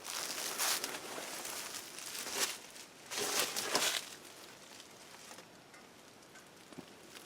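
Rustling and crinkling noise in several swells over the first four seconds, then quieter outdoor ambience with a few small clicks.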